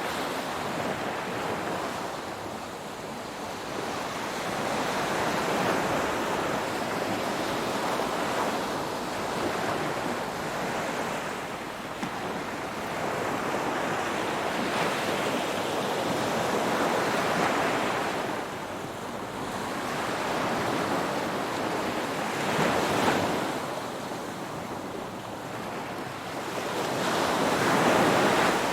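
Ocean waves breaking and washing on the shore, the surf swelling and ebbing every few seconds, with a stronger swell near the end.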